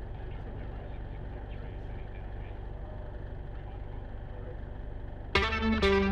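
Jabiru light aircraft's engine and propeller droning steadily in flight. Electric guitar music comes in suddenly, much louder, near the end.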